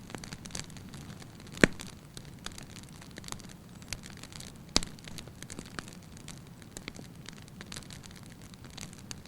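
Wood fire burning in a fireplace: a steady low rush of flame with irregular sharp crackles and pops, two louder snaps about a second and a half in and near the middle.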